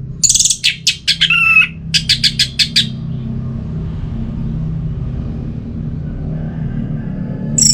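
Orange-headed thrush singing: a quick run of sharp, high notes with a couple of clear whistled tones in the first three seconds, then a pause with a steady low rumble underneath, and the song starts again near the end.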